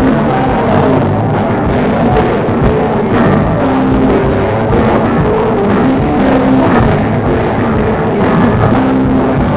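A live band playing loud rock music with guitar and drums.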